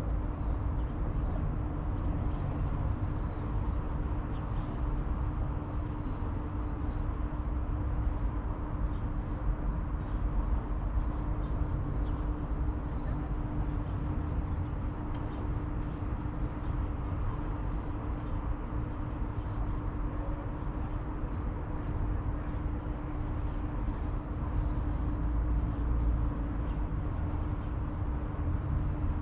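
Steady outdoor ambience of distant city traffic: a continuous low rumble with a constant low hum.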